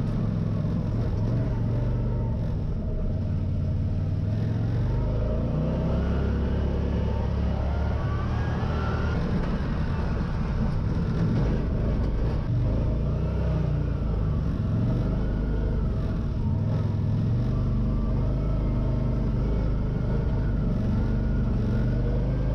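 Engine of a CFMOTO ZForce 800 EX side-by-side, an 800 cc V-twin, running as the machine drives along a trail, its pitch rising and falling with the throttle.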